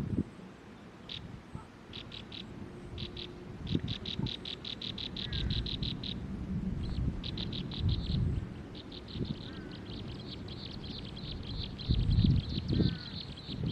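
A bird calling in rapid series of short high notes, speeding into a fast, continuous trill in the second half, with a few fainter slurred whistles from another bird. Low rumbling thuds break in at the start and again near the end.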